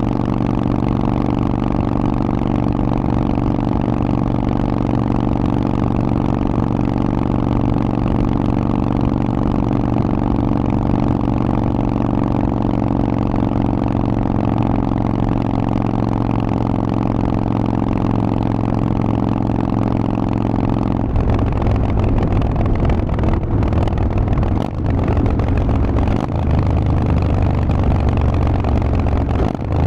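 Harley-Davidson Forty-Eight's air-cooled 1200 cc V-twin running through a Vance & Hines exhaust, holding a steady note for about twenty seconds. The sound then changes, and the engine note dips briefly twice near the end.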